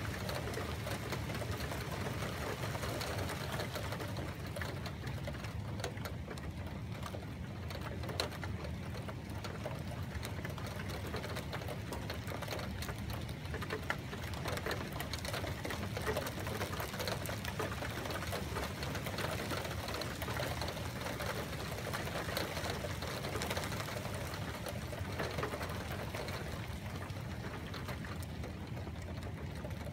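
Steady rain falling during a storm, an even pattering hiss with two brief faint clicks partway through.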